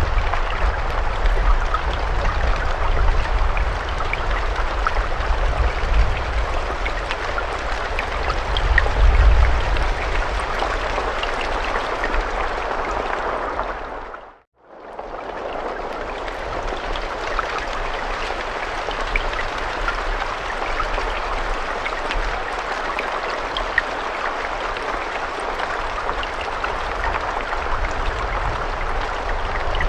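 Steady rain, a dense hiss with individual drops ticking through it and a low rumble underneath in the first half. About halfway through it fades out to near silence and straight back in, like a loop point in the recording.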